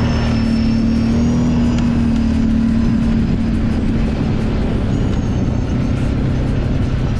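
Kawasaki Brute Force 750 ATV's V-twin engine running steadily under way on a trail, at an even, unchanging speed.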